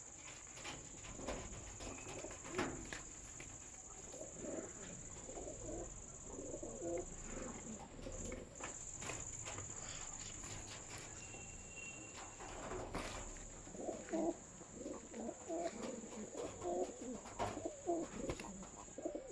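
Pigeons cooing repeatedly in low calls, in two spells, the second busier near the end. Scattered sharp clicks and taps run between the calls, and a steady high-pitched whine lies underneath.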